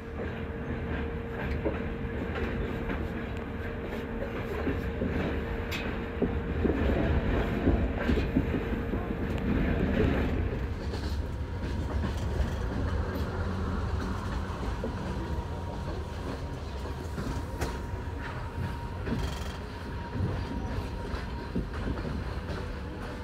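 Passenger sleeping car's wheels rumbling and clicking over rail joints and switches, heard from inside the compartment, with a faint steady hum under the rumble.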